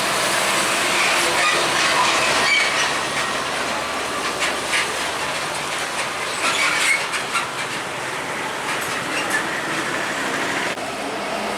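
Heavy trailer trucks rolling past close by, with a steady rush of tyre and engine noise and a loose, rattling clatter from the trailers.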